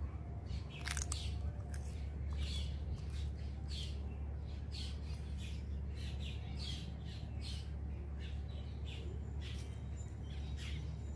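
Small birds chirping over and over, short high calls at an irregular pace, over a low steady rumble.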